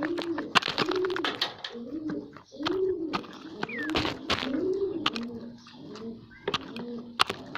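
Pigeons cooing over and over in low, rising-and-falling notes about once a second, mixed with many sharp clicks and taps.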